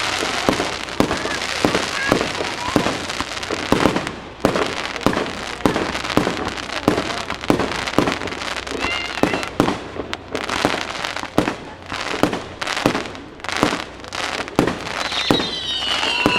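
Fireworks going off in rapid succession, with sharp bangs and crackles several times a second. Near the end, a few whistles fall in pitch.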